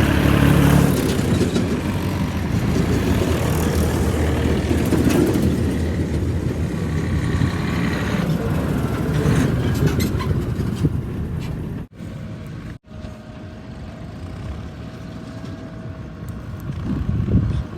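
Heavy diesel engine running steadily, loud at first. It breaks off suddenly twice about twelve seconds in, then carries on quieter with a thin steady whine.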